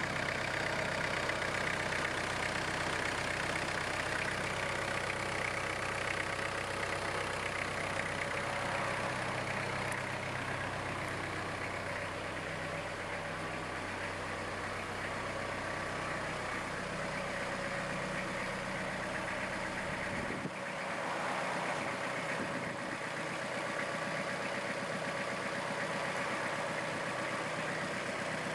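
Iseki GEAS41s tractor's diesel engine idling steadily. Its low hum thins out about twelve seconds in, and again after a brief dip about twenty seconds in.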